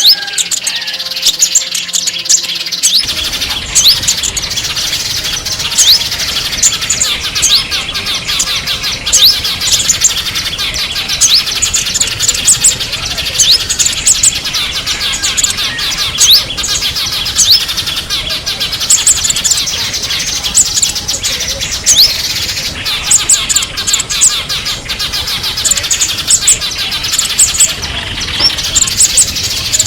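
Many small songbirds chirping and twittering at once, a dense flock chorus of quick high chirps and short rising whistles. A faint low background noise comes in about three seconds in.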